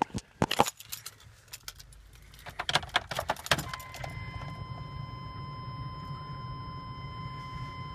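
Ignition keys jingle, then a GM 6.5-litre V8 diesel is cranked briefly and fires about three and a half seconds in, settling into a steady low idle on a cold start at 13°F. A steady high tone sounds over the idle.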